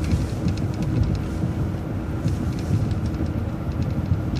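City transit bus running, a steady engine and road noise with scattered light clicks and rattles.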